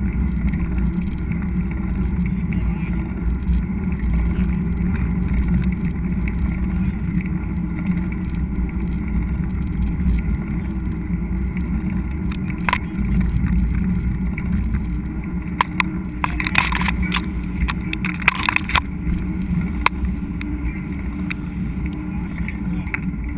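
Mountain bike riding on a trail, heard through a GoPro: a steady low rumble of tyres and wind, with a few sharp clicks and rattles, briefly clustered about two-thirds of the way through.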